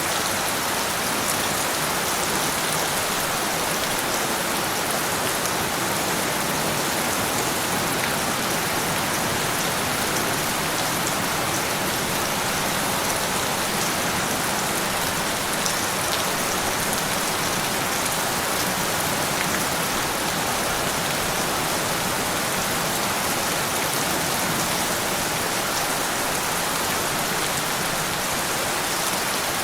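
Steady rain falling, an even hiss of many drops hitting a surface with small, fine drop clicks through it.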